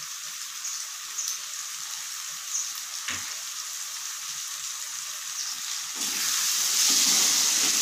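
Chopped vegetables sizzling in hot oil and fried masala in a kadai, a steady frying hiss, with one soft knock about three seconds in. About six seconds in the sizzle grows louder as another handful of chopped vegetables drops into the pan.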